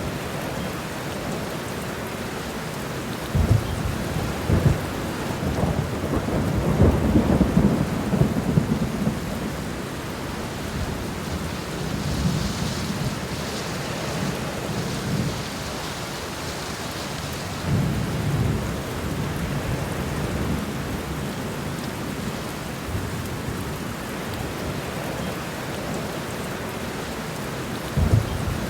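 Steady rain falling, with thunder rumbling over it. A long roll builds a few seconds in and is loudest about a quarter of the way through. A weaker rumble comes past the halfway point, and a short one near the end.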